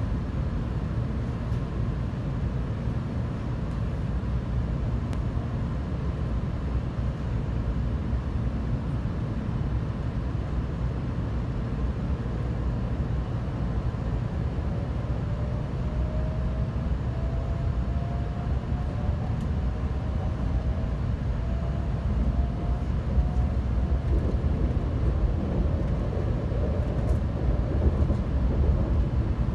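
Cabin running noise of a Kyushu Shinkansen 800 series car: a steady low rumble, with a faint whine from the traction motors that rises in pitch through the second half as the train picks up speed.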